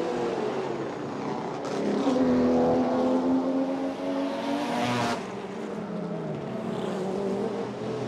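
GT race car engines running hard on track, one engine note climbing and holding high, then dropping away sharply about five seconds in as the car lifts off or passes by.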